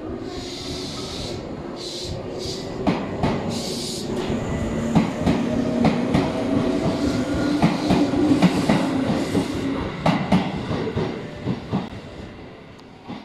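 Electric train running close by, its wheels clacking over the rail joints under a steady motor hum. It grows louder, then fades away near the end, with some brief high hissing in the first few seconds.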